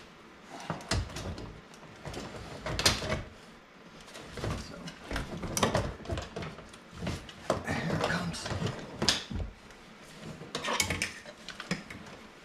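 Irregular clunks, clicks and scraping as a 2015 Ford Mustang's front seat is worked loose and shifted out of the car.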